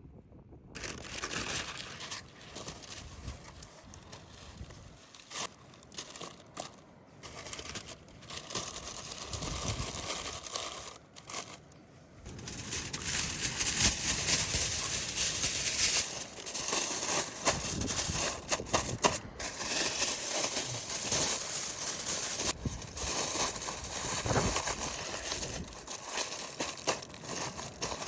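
Crinkling and crumpling handling sounds, getting louder about twelve seconds in.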